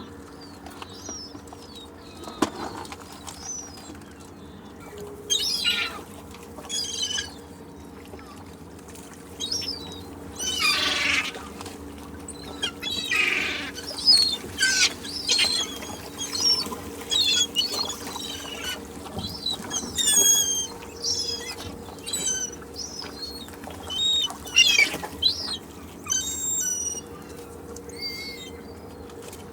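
Seagulls calling: many short, high cries, often falling in pitch, overlapping and thickest through the middle, over a steady low hum.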